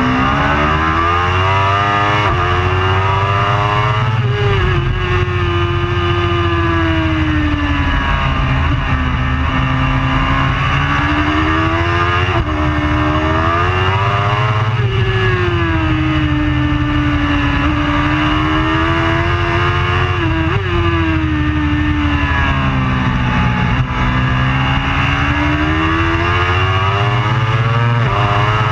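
Superbike engine at racing speed, its pitch climbing and falling again and again as the bike accelerates and slows, with a few sudden drops in pitch at gear changes.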